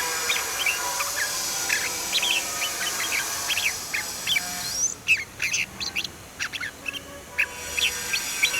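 Red-whiskered bulbuls singing: a rapid run of short, clear chirped and whistled notes. About five seconds in, a steady background hiss drops away, as at a splice to another recording.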